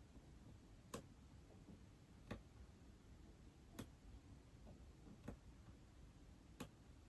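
Faint, sharp taps on an iPad screen, five of them about a second and a half apart.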